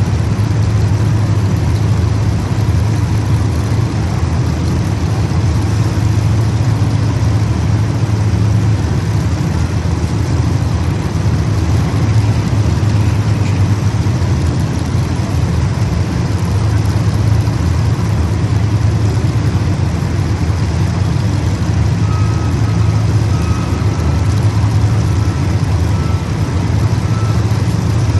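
Racing engines of the cars in the feature running steadily on the track, an even, continuous engine sound with no let-up.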